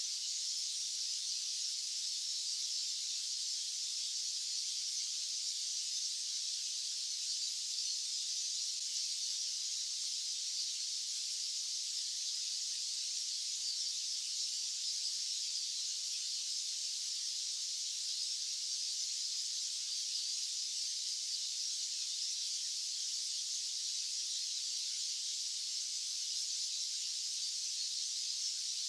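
Steady white noise: an even, unchanging hiss, high and thin with no low end.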